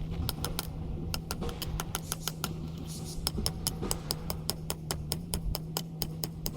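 A fast, even series of light, sharp clicks or taps, about five a second, over a steady low hum.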